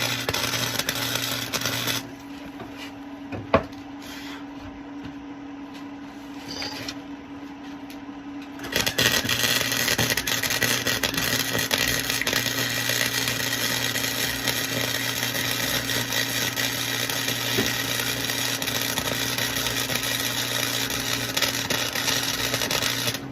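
Electric arc welding on steel exhaust pipe: the arc crackles and hisses steadily in two runs, a short one at the start and, after a pause of about seven seconds with a single sharp click, a long run of about fourteen seconds that stops at the end.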